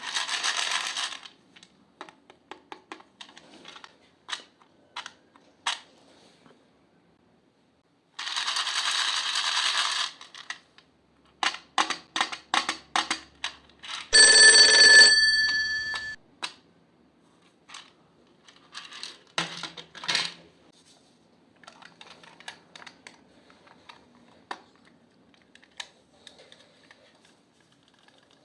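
Close-up handling sounds of makeup being broken up and mixed into slime: two crackling, rustling stretches, many scattered sharp clicks and taps, and one loud ringing tone, like a struck metal or glass object, lasting about two seconds past the middle.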